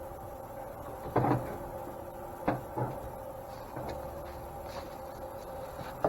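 Two or three sharp clunks of metal parts being handled and knocked together while a tight bronze bushing is test-fitted into its bore, with the first the loudest, over a steady low hum.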